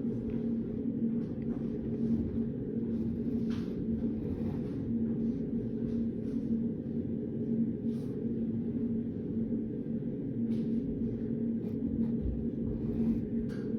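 Steady low hum of a study room, with a constant droning tone, and scattered faint clicks and taps of someone writing and handling study materials.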